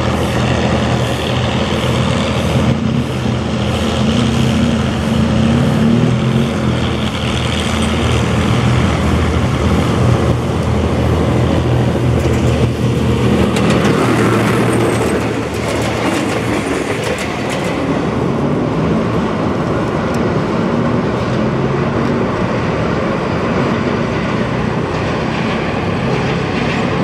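Diesel locomotive hauling a passenger train, its engine running steadily as it approaches and passes. About halfway through, the wheels click over the rail joints as the coaches go by.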